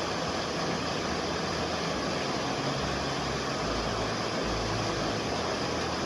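Waterfall's rushing water, a steady even noise.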